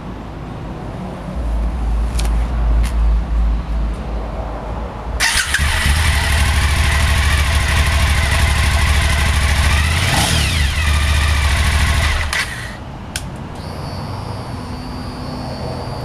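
Suzuki SV1000S 90-degree V-twin on its stock exhaust, starting about a second and a half in and idling. About five seconds in, the revs are raised and held, with a rise and fall in pitch around ten seconds. It drops back a little after twelve seconds.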